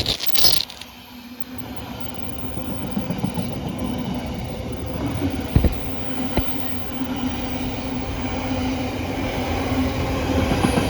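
Freight train hauled by Class 70 diesel locomotives passing through the station. The wagons roll by with a steady droning hum, a few sharp clanks, and a short loud burst right at the start.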